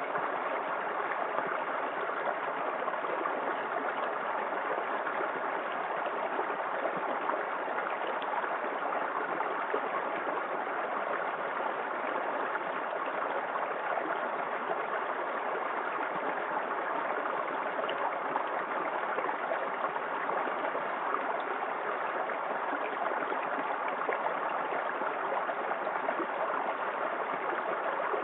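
Small waterfall in a forest creek: water pouring and splashing in a steady, unchanging rush.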